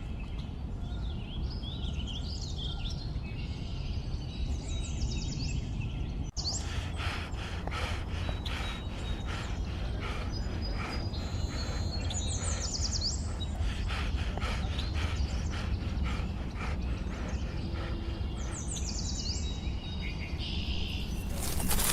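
Forest ambience: birds chirping and calling over a steady low background noise. About six seconds in the sound changes abruptly, and a run of short chirps repeats a couple of times a second for most of the rest.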